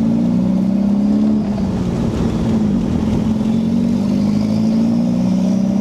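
Toyota 3S-GTE turbocharged four-cylinder with an open downpipe, running steadily at low revs off boost, its note wavering slightly.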